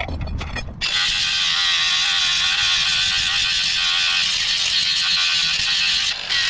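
Grinder grinding rust off a steel crowbar: a few knocks, then about a second in the grinder's steady, high-pitched grinding noise starts against the metal, with a brief dip near the end.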